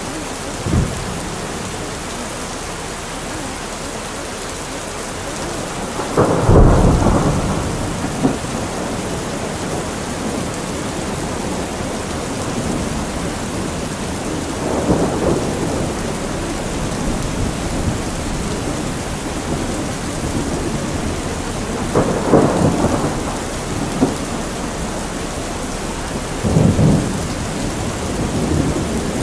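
Steady rain with rolling thunder: a heavy rumble about six seconds in and three lighter rolls later on.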